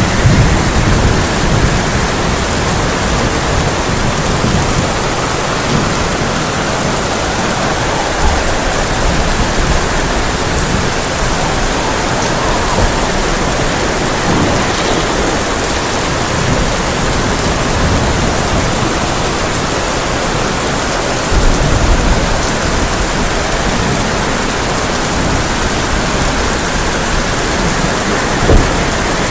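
Heavy rain pounding steadily on a tin roof, with thunder rumbling several times: near the start, about a third of the way in and about three-quarters of the way in, then a short sharp clap near the end.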